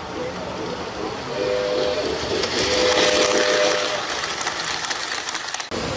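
Onboard sound of a LionChief 2-4-2 model steam locomotive: two whistle blasts from its speaker, a short one and then a longer one, over a steady chuffing hiss and running noise.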